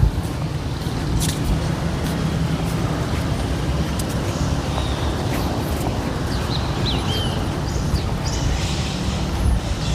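Street ambience: a steady rumble of traffic, with birds chirping a few times in the middle.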